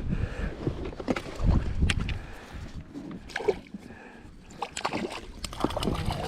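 Water sloshing and splashing around a small inflatable dinghy, with irregular light knocks and clicks against the boat.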